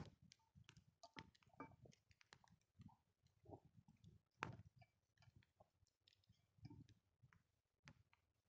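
Wood campfire crackling faintly: scattered small pops and ticks at irregular times, with one sharper pop about four and a half seconds in.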